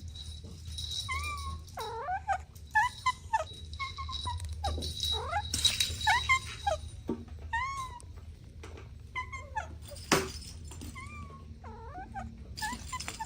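Kittens mewing, many short high calls one after another and sometimes overlapping, with a few sharp knocks, the loudest about ten seconds in.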